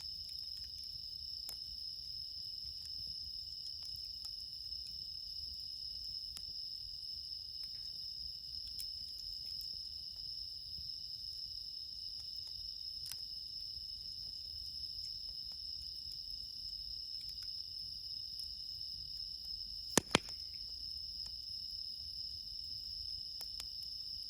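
Crickets trilling steadily and high-pitched over a crackling campfire, with faint scattered ticks and two sharp pops about twenty seconds in.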